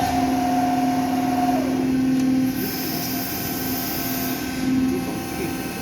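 Steady industrial machinery hum made of two held tones. The higher tone drops away about one and a half seconds in, and the lower one runs on, swelling a little now and then.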